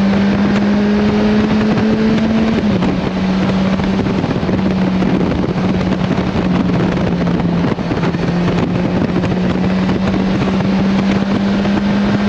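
Motorcycle engine running at a steady speed under way, with heavy wind rush over the microphone. The engine note drops slightly about two and a half seconds in, then holds.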